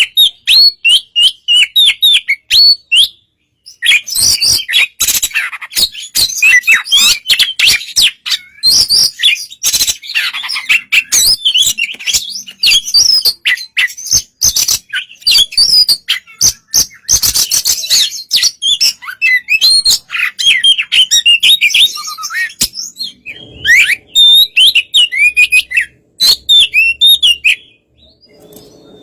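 Oriental magpie-robin (kacer) singing a long, varied song of fast whistles, chirps and sharp clicks, with a short break about three seconds in.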